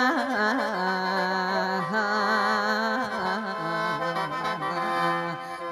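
Khaen, the Isan bamboo mouth organ, playing an ornamented melody over steady held drone notes: the instrumental accompaniment of mor lam between sung phrases.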